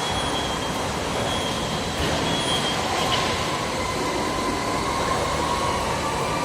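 Lead rotary furnace running: a steady, loud industrial noise from its oxy-gas burner and rotating drum, with a faint steady whine above it.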